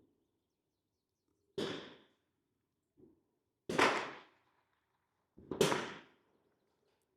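.22 LR rimfire rifle shots, three sharp cracks about two seconds apart, each with a short ringing tail; the middle one is the loudest.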